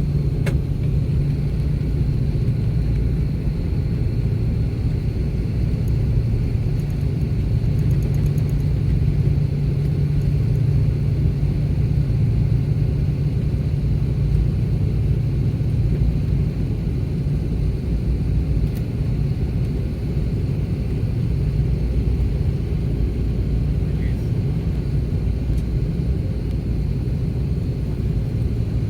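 Steady low rumble of an Airbus A330-300's cabin on the ground just after landing, with a faint steady high whine above it.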